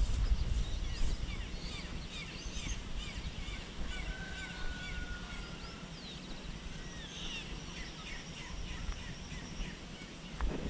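Several small birds chirping and twittering in quick, overlapping calls, with one longer level whistle about four to six seconds in, over a low rumble.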